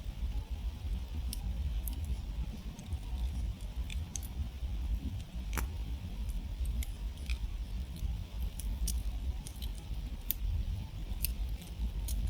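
Wood campfire crackling, with irregular sharp snaps and pops from the burning wood, one louder snap about halfway through, over a steady low rumble.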